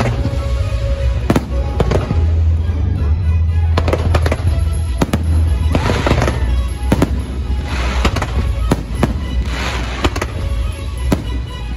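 Fireworks bursting overhead in quick succession: sharp bangs over a continuous low rumble, with dense crackling bursts about six, eight and ten seconds in. Music plays underneath.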